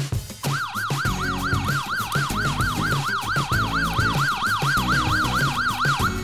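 Fire-engine siren, a fast warble that rises and falls about three to four times a second, starting about half a second in and cutting off just before the end.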